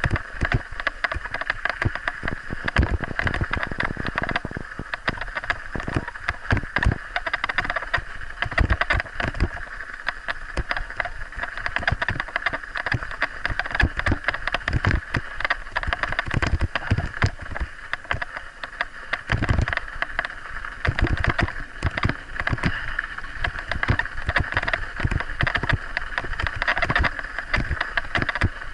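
Scott Spark full-suspension mountain bike being ridden over rough ground: constant irregular rattling and knocks, over a steady rush of tyre and wind noise, as picked up by an action camera.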